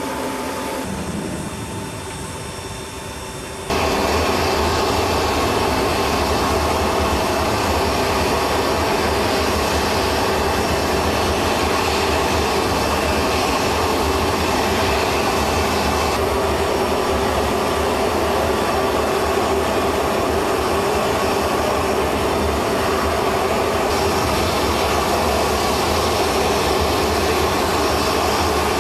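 Steady aircraft turbine engine noise. It starts abruptly, much louder, about four seconds in after a quieter stretch, then holds even to the end.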